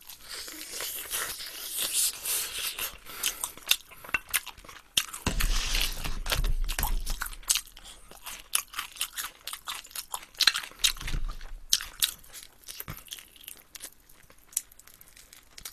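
Close-miked chewing of sauce-glazed fried chicken: irregular crunches and clicks, with a brief low rumble around the middle.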